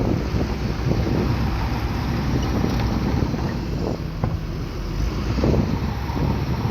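Bulldozer's diesel engine running steadily, with wind buffeting the microphone.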